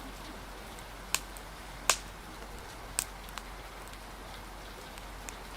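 Steady rain hiss with a handful of sharp pops from a crackling wood fire, the loudest about two seconds in.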